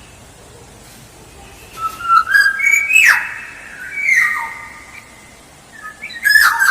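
Black-naped oriole (kepodang) singing whistled phrases with short pitch glides: a first phrase about two seconds in, a second around four seconds, and a third near the end.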